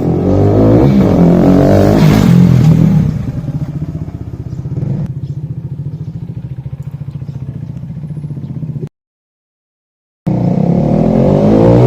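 KTM RC 390's single-cylinder engine through a free-flow exhaust with the dB killer removed: revving hard for about three seconds, dropping back to a lower, evenly pulsing run, then, after a short dead gap, revving up loudly again.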